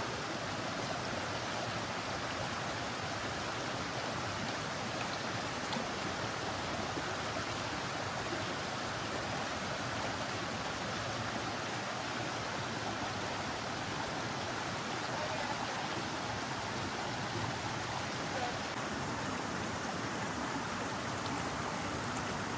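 A brook running: a steady, even rush of flowing water.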